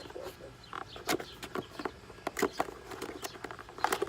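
Hands handling a new car air filter and its packaging: scattered, irregular small clicks and knocks, as if trying to get it open.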